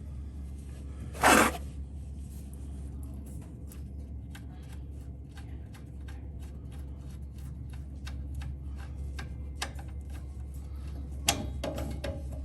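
Light irregular clicks and knocks of tools being handled, over a steady low hum; a brief loud scraping rush about a second in and a couple of sharper knocks near the end.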